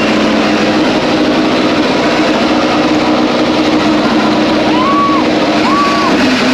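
Ducati Desmosedici GP25 MotoGP racing bike's V4 engine running loud and steady, with two short rising-and-falling tones near the end.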